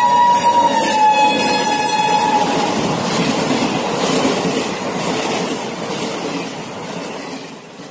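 Passenger train passing at speed while sounding its horn; the horn's pitch drops as the locomotive goes by and the horn stops about two and a half seconds in. The coaches then rumble past, the noise fading away near the end.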